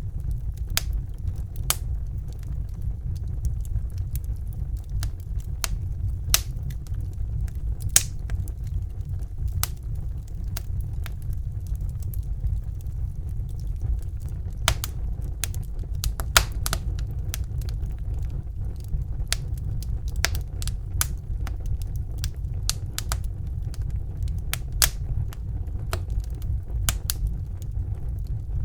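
Wood fire burning in a fireplace: a steady low rumble of the flames with irregular sharp crackles and pops, a few standing out louder.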